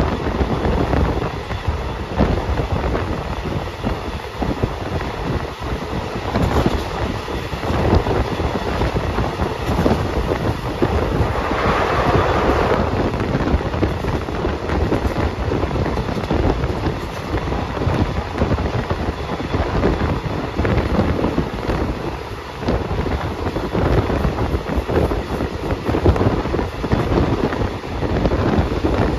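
Passenger train running along the track: a steady rumble and rattle of wheels and carriage, with wind buffeting the microphone. About twelve seconds in there is a brief, louder rush of noise.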